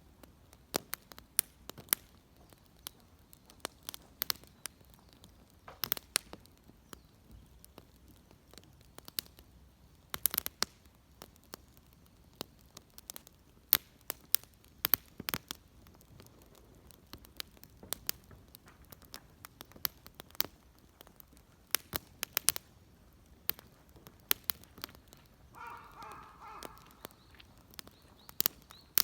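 Wood fire crackling, with irregular sharp snaps and pops. A crow caws once near the end.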